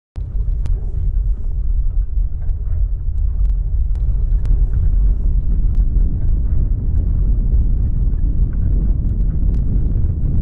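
A loud, steady low rumble starting suddenly, with scattered sharp clicks through it.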